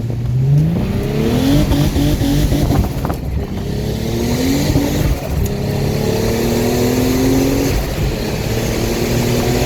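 Twin-turbocharged Infiniti G35 V6 with Motordyne exhaust accelerating hard through the gears: the engine note climbs steadily, drops back at a gear change about three seconds in and again about eight seconds in, then climbs again.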